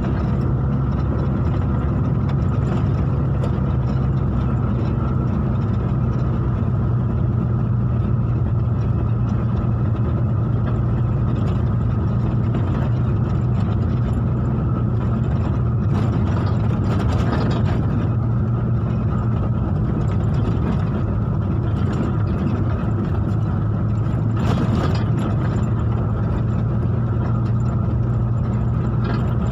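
Vehicle engine running steadily, a continuous low drone that holds the same level throughout.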